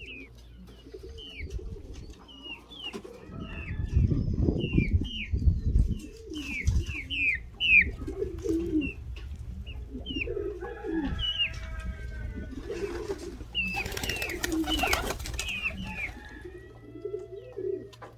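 Domestic pigeons cooing in a rooftop loft, with small birds chirping repeatedly over them. Gusts of wind rumble on the microphone for a few seconds near the start, and a burst of wing flapping comes about fourteen seconds in.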